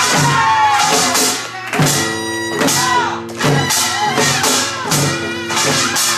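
Live Korean traditional folk music accompanying a deotbaegi masked-play dance: clashing metal percussion and drums strike about twice a second over held ringing tones, while a pitched melody line bends up and down above them.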